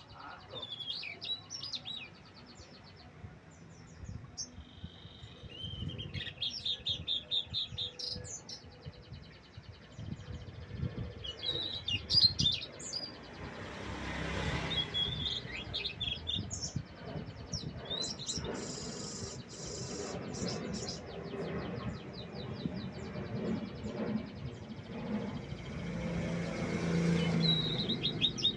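Tledekan laut singing: bursts of high chirps and rapid trills, repeated with short pauses, over a low background rumble.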